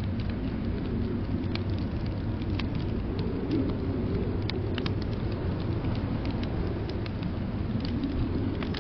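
Fireplace crackling: irregular sharp snaps and pops of burning wood, a few a second, over a steady low rumble.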